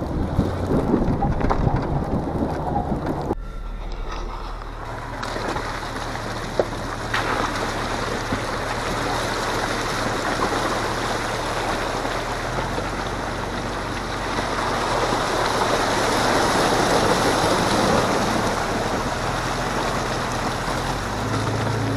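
Jeep Grand Cherokee ZJ engine running with a low steady hum under a continuous rushing noise of the drive over the snowy trail. The sound changes abruptly about three seconds in.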